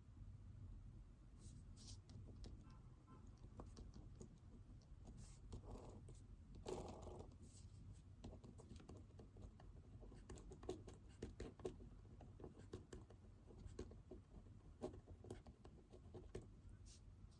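Faint pen-on-paper writing: irregular small scratches and taps of a pen, with a short pitched sound about seven seconds in.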